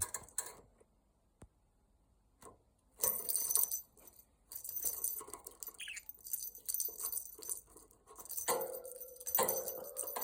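Agitated budgerigar making harsh, scratchy bursts of sound in several spells, starting about three seconds in, after a few faint clicks.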